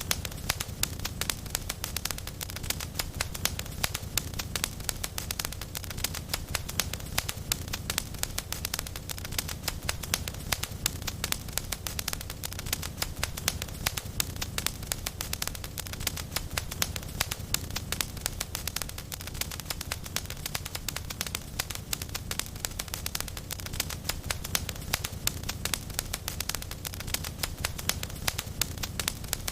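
Fireplace wood fire crackling steadily: many small sharp snaps a second over a low rumble of the burning.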